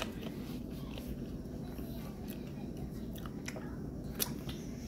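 Close-up chewing of sushi: small wet mouth clicks and smacks, with two sharper clicks, one at the very start and one about four seconds in, over a low steady hum.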